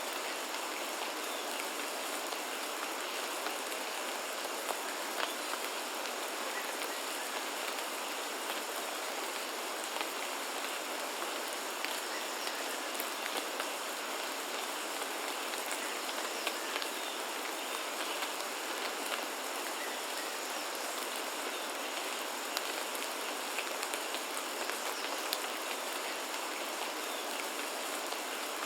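Steady rain falling: an even, unbroken hiss with scattered sharp ticks of individual drops.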